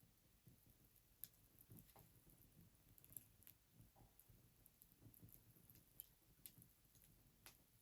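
Wood fire crackling faintly, with irregular sharp pops and snaps over a low soft rumble of the burning.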